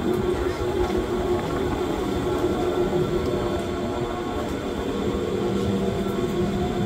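Electric Wengernalp Railway rack train running close by: a steady rumble with a humming motor tone.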